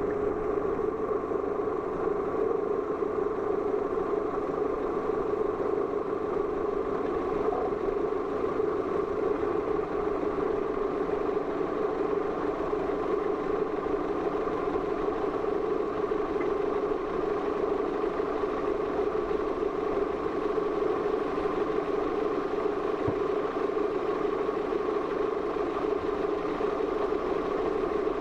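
Steady, unchanging engine drone heard from inside a car's cabin, with a constant low hum and no revving.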